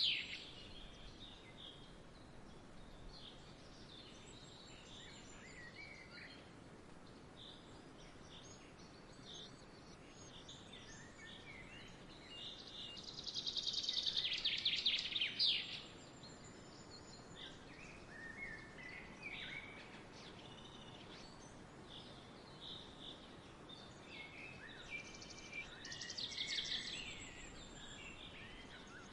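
Songbirds chirping and singing over a faint steady outdoor hiss. A louder, rapid trilled song comes about halfway through and again near the end, with scattered short calls in between.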